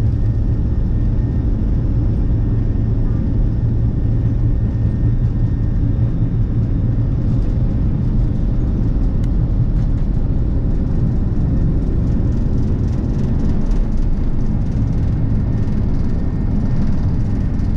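Steady low rumble of an Airbus A330-300 airliner heard from inside the passenger cabin: engine and airflow noise with no change in level.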